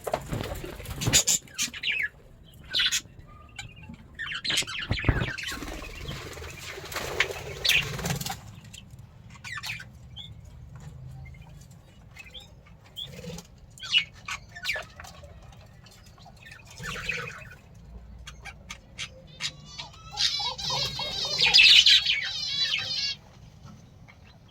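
Budgerigars chirping and squawking, with flurries of wing-flapping and scattered sharp clicks. From about 20 s to 23 s a budgie's fast, rippling warble is the loudest sound.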